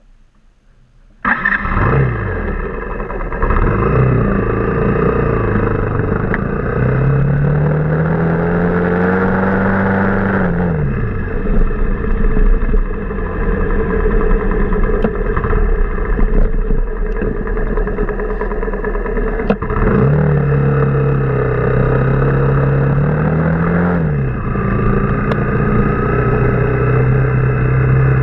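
Motorcycle engine under way. It comes in suddenly about a second in, then its pitch rises as it accelerates and drops back, twice, before settling to a steady cruise.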